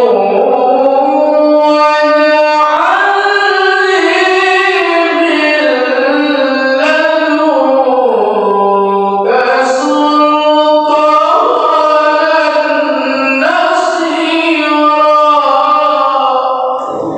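A male Quran reciter's solo voice in melodic tilawah style, holding long ornamented notes. The line climbs high a few seconds in and sinks low around the middle, with a few brief pauses between phrases.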